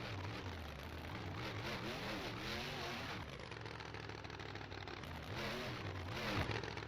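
Monster truck engine revving up and down in repeated blips, easing off in the middle and revving again near the end, over steady background noise.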